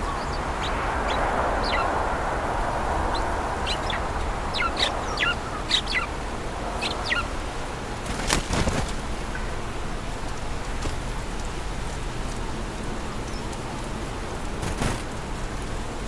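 Birds chirping: many short, high calls over the first half, thinning out later, over a steady low background rumble. A brief burst of noise about eight seconds in and another near the end.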